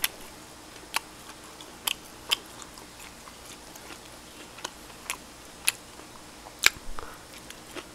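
A person chewing barbecued duck close to the microphone: about a dozen short, sharp mouth clicks and smacks at irregular intervals.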